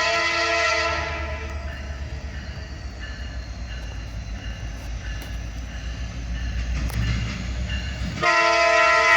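Fouled Nathan K5LA five-chime locomotive horn sounding a chord that cuts off about a second in, leaving the low rumble of the EMD diesel locomotives as they draw closer, then the horn blows again loudly near the end.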